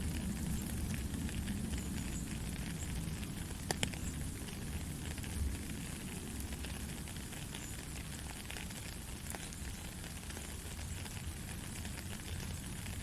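Gentle rain falling steadily: a dense patter of small drops over a deep, even noise, with a few sharper drop ticks, the clearest about four seconds in.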